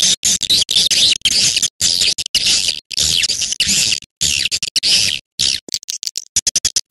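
Recorded swiftlet lure call: high, dry, chattering twitters in phrases of about half a second to a second, separated by short gaps, with a quick run of short chirps near the end.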